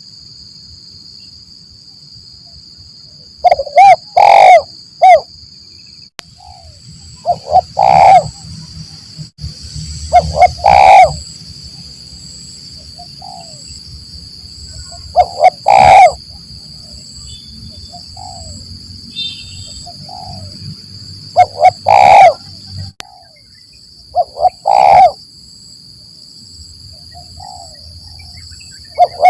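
Spotted dove (tekukur) cooing, its low phrases repeated every few seconds, with fainter answering coos between them. A steady high-pitched buzzing runs underneath.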